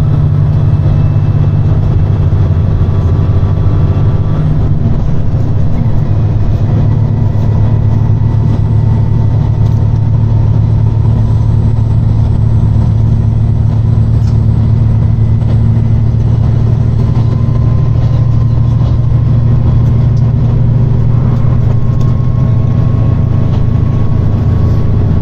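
Diesel engines of a JR Shikoku 2700 series limited-express railcar running hard under power, heard from inside the car. A loud, steady drone; its engine notes shift in pitch about four seconds in.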